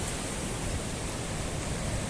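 Storm wind and rain: a steady hiss, with gusting wind on the microphone in an uneven low rumble.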